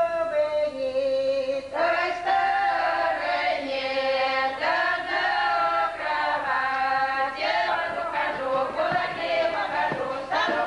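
Folk ensemble singing a Russian folk song unaccompanied in chorus, with long held notes in phrases of a few seconds each.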